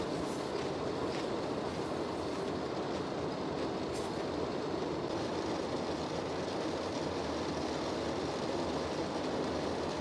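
Heavy rain pouring steadily, a dense, even rush of water with a few sharper drops ticking through it.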